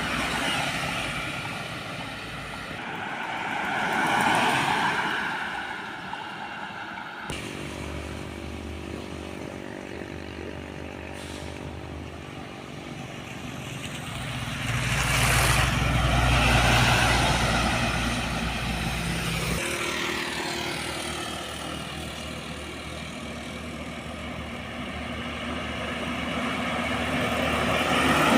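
Heavy diesel trucks driving past one after another, each engine note swelling and fading as it goes by, with abrupt changes from one pass to the next.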